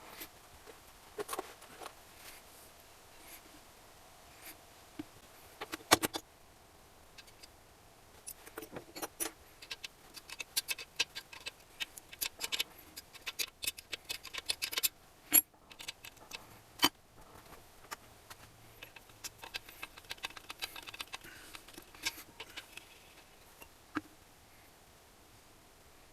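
Small metal parts and hand tools clinking and clicking against each other during engine assembly, in irregular clusters with a few sharper knocks.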